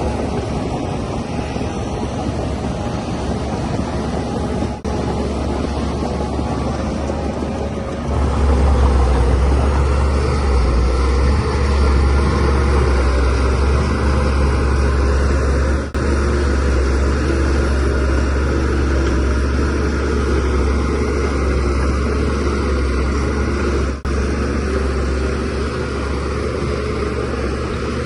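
DH17C3 bulldozer's diesel engine running steadily under load as the machine works soil, growing louder and deeper about eight seconds in.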